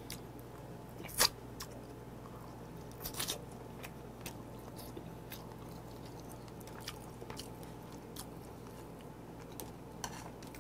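A man biting and chewing meat off a pork neck bone from gamjatang, with sharp wet clicks and smacks from his mouth: a loud one about a second in and a few more around three seconds. A low steady hum runs underneath.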